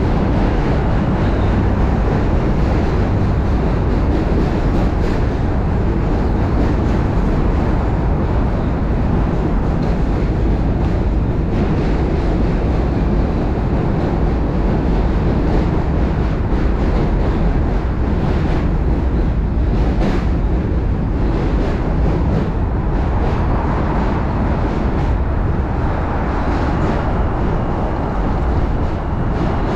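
Strong wind buffeting a chest-mounted camera's microphone on a moving bicycle: a steady, loud low rumble that covers the sound of the ride.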